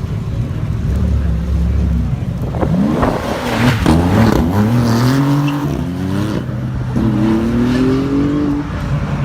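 Sports car engine revving hard and accelerating, its pitch climbing in several rising sweeps that break off and start again.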